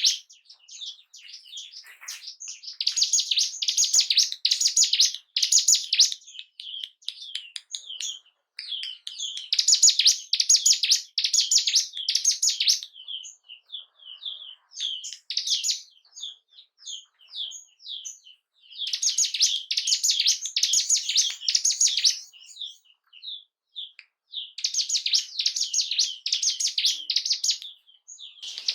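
Ciblek gunung, a small prinia, singing: dense phrases of rapid, high, repeated notes, each lasting a few seconds, with sparser single chirps between them.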